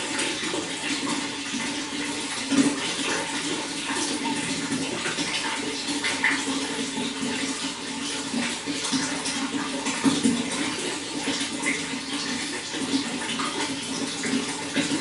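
Water running steadily, a continuous rushing splash with small irregular spatters and gurgles throughout.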